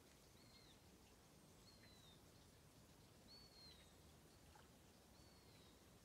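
Near silence with a faint wild bird calling: four short high notes, each dropping at the end, spaced about one and a half to two seconds apart, over a quiet low hiss.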